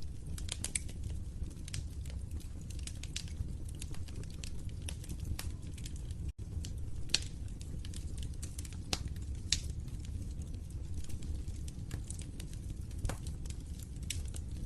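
Wood fire burning in a fireplace: a low steady rumble with irregular sharp crackles and pops, a few louder snaps among them. The sound drops out for an instant about six seconds in.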